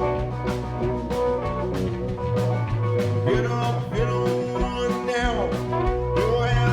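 Live blues-rock band playing: electric guitar over bass and a steady drum beat, the guitar bending notes up and down around the middle and near the end.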